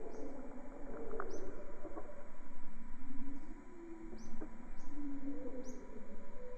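Wild birds chirping: about five short, high calls a second or so apart, over lower wavering calls and a faint steady whine.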